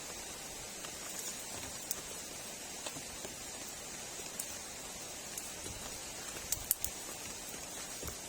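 Steady rain falling, a constant high hiss with scattered sharp drip ticks, a few louder ones near the end.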